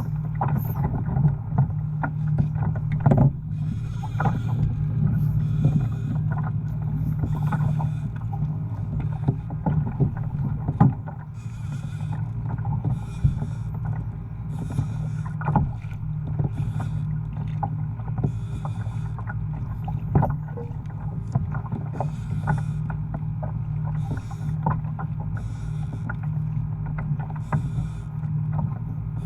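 Pedal-drive fishing kayak moving slowly through open water: water rushes along the hull with a regular swish about every second or so, and scattered clicks and knocks from the hull and gear run through it.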